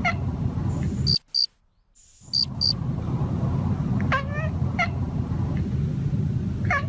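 A domestic cat chattering at birds: short chirping calls about four seconds in, again a moment later, and once more near the end. Short high-pitched chirps come earlier, over a steady low rumble that drops out briefly about a second in.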